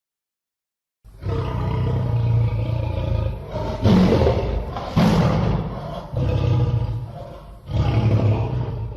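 Lion roaring in a series of about four loud roars with short dips between them, starting and stopping abruptly out of silence like an inserted sound effect.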